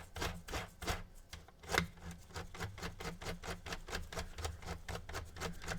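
A Phillips 00 screwdriver being turned in the manual disc-eject screw of an original PS4 (CUH1115A), making a quick run of light clicks, about four to five a second. This is an attempt to crank the disc out by hand.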